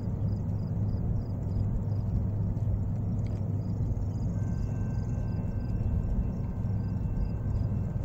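Diesel locomotives of a CSX freight train running, a steady low rumble.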